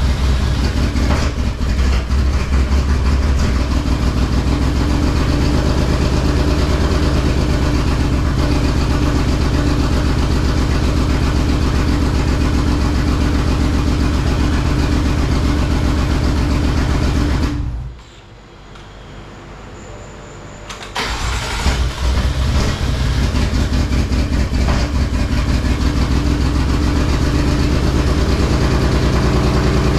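Freshly built BMW S55 inline-six, converted to a single EFR 9280 turbo, running on one of its first starts. It goes quiet about eighteen seconds in and starts again about three seconds later, then runs steadily.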